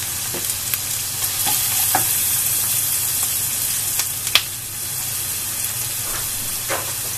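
Chopped onion, garlic, dried red chillies and curry leaves sizzling steadily in hot oil in a stainless steel pan while they are sautéed for a tempering. A wooden spatula stirring them knocks and scrapes against the pan now and then.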